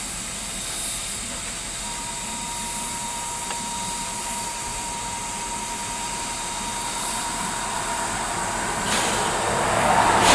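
Steam locomotive C56 44 standing with a steady hiss of steam. Near the end a louder rush of steam builds, with a couple of sharp puffs as it gets under way.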